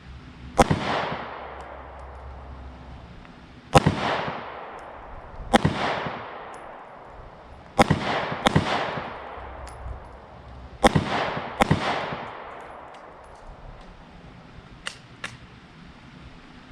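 Glock 43X 9mm pistol fired seven times at uneven intervals of one to three seconds, each shot sharp with a short echo trailing off. Two much fainter shots come near the end.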